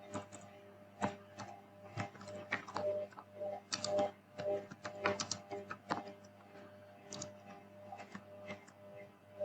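Typing on a computer keyboard: irregular key clicks, several a second, with short pauses, over a steady low electrical hum.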